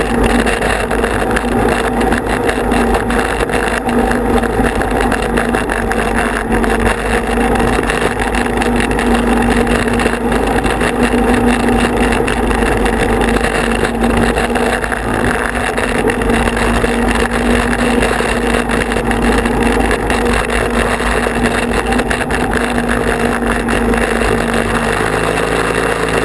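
Tractor engine running steadily under a ride, with an even, constant tone; near the end its pitch shifts lower.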